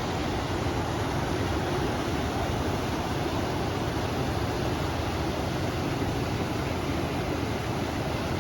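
A river's flowing water and wind together make a steady, even rushing noise with no distinct events.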